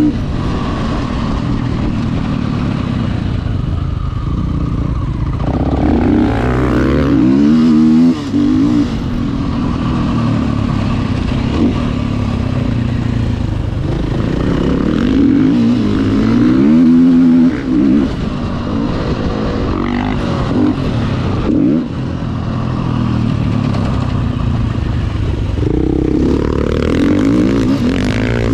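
Motocross dirt bike engine ridden round a track, revving up and down over and over with the pitch rising and falling, and a few brief dips where the engine sound drops away.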